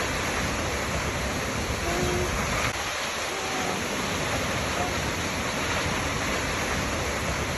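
Waterfall: a steady, even rush of falling water, with a few brief faint whistled notes over it.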